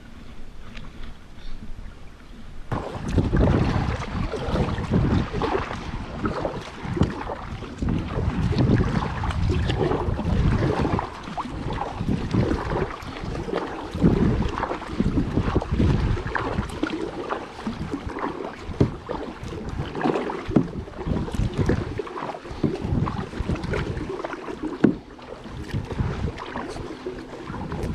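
Kayak being paddled on a lake: water splashing from the paddle strokes, with wind buffeting the microphone in a loud low rumble from about three seconds in.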